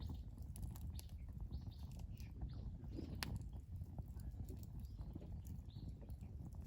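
Small birds chirping now and then over a low steady rumble, with a few sharp clicks.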